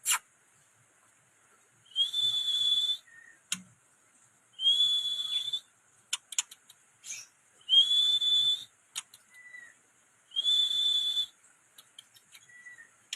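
A clear, level whistled note about a second long, repeated four times a few seconds apart, each time with a breathy hiss. Between the notes come a few short, soft chirps and clicks.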